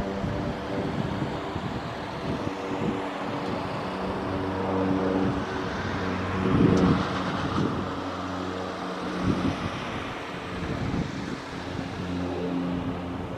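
Cessna 208 Caravan I single-engine turboprop flying low past overhead: a propeller drone with steady hum tones over a rushing noise that swells to its loudest about seven seconds in.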